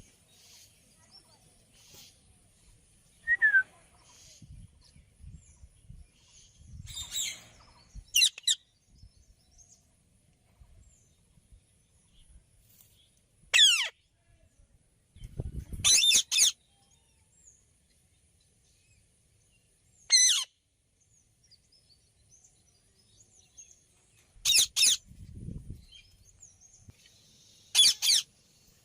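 Indian ringneck parrot giving short, sharp, high-pitched calls, each falling in pitch, about seven of them spaced several seconds apart. Low rumbles sound under two of the calls.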